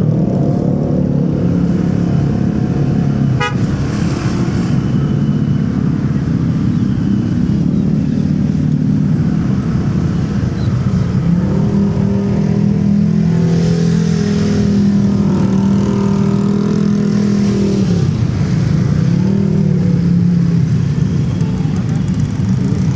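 Motorcycle engine running through city traffic, its pitch shifting with speed, over steady road noise, with a vehicle horn sounding.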